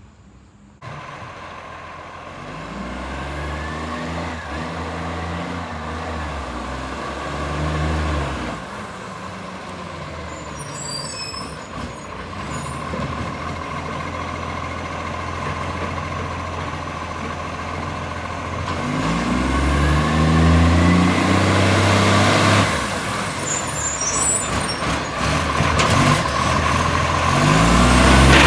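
Garbage truck's diesel engine pulling away twice, its note rising and falling through the gears, blasting from an exhaust leak. Short air-brake hisses come about ten seconds in and again near the end.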